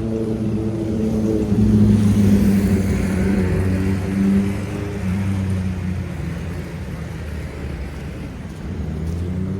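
A motor engine running close by with a steady hum. It gets louder about two seconds in, then slowly eases off.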